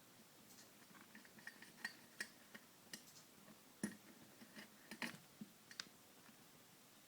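A cat playing with a small toy mouse, making scattered light clicks and taps, with two louder knocks about four and five seconds in.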